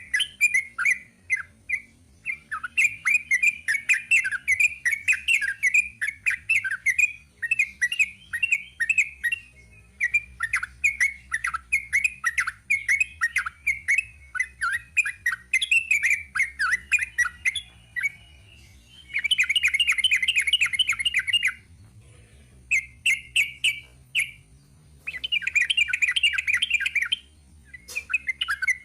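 Yellow-vented bulbul (trucuk) singing a long, rapid run of chirpy, bubbling notes. It breaks into dense fast trills a few times, with brief pauses between phrases.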